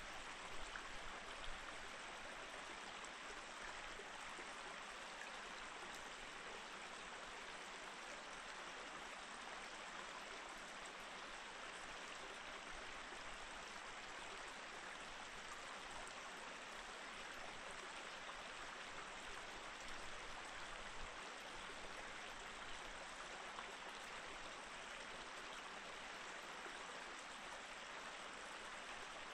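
Mountain stream flowing steadily over rocks, a faint, even rush of water.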